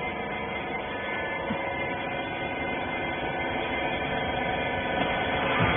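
Hydraulic rag baler's pump motor running: a steady hum of several fixed tones, slowly growing a little louder.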